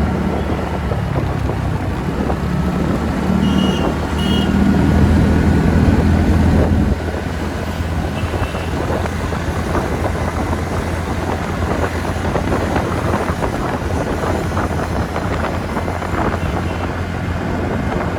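TVS Ntorq 125 scooter riding under way: its single-cylinder engine drone mixed with wind noise on the microphone. A deeper, louder engine drone swells from about three seconds in and drops away abruptly near seven seconds.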